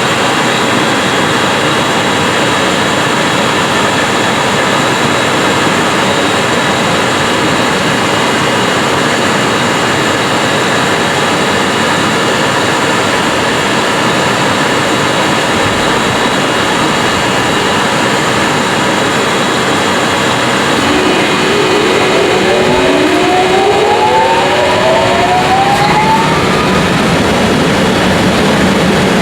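EF64 electric locomotive's cooling blowers running with a loud, steady rushing noise. Near the end several rising whines sweep up together over a few seconds.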